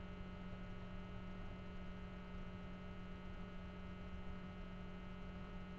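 Steady electrical mains hum in the recording: a low, even buzz with a string of fainter overtones above it and a little background hiss.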